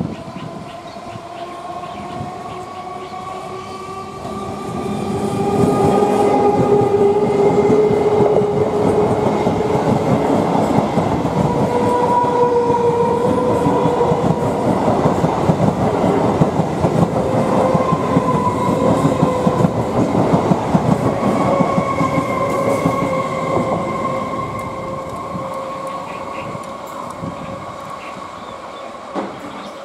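Electric multiple-unit local train passing close by at speed: an electric whine that rises slightly in pitch as it approaches, over the dense rumble and clatter of wheels on the rails. It grows loud about five seconds in and fades after about twenty-four seconds as it moves away.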